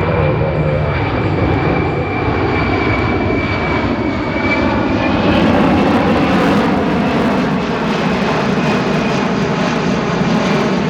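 Boeing C-17 Globemaster III's four turbofan engines running on a tactical approach: a steady jet roar with a high whine that dips slightly, then rises about five seconds in as the sound swells.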